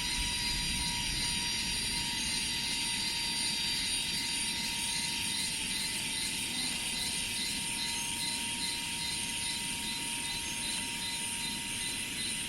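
Rice-field ambience: insects, such as cicadas, sounding in steady high-pitched layers, with a chorus pulsing about twice a second, over a low rumble.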